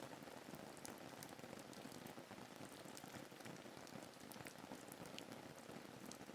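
Faint, steady rain falling, a soft even hiss with many scattered drop ticks.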